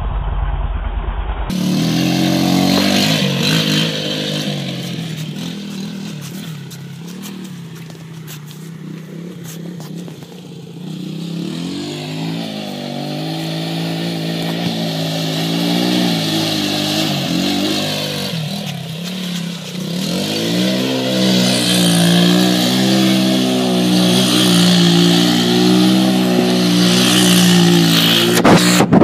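Quad bike engine running under riding, its pitch rising and falling as the throttle opens and closes. It fades for a while, then comes back louder.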